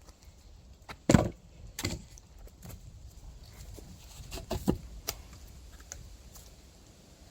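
A few sharp knocks at uneven intervals: the loudest about a second in, another near two seconds, and a quick cluster of three a little before and about five seconds in.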